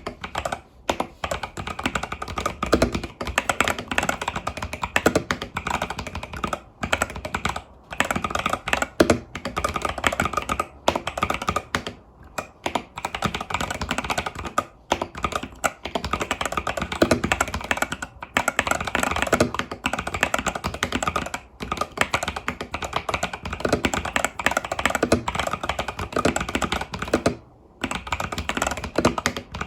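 Continuous fast typing on an Epomaker TH80 Pro mechanical keyboard with Epomaker Budgerigar tactile switches and stock keycaps, a dense run of keystroke clacks broken by a few short pauses, the longest near the end.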